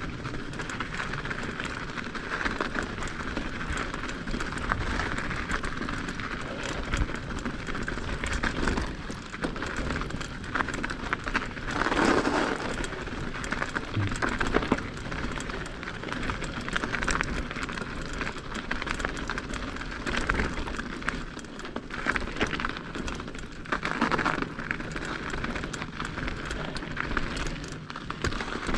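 Mountain bike tyres rolling over an icy, snow-crusted trail, with the bike rattling: a continuous crackling, gritty noise. It swells louder about twelve seconds in and again about twenty-four seconds in.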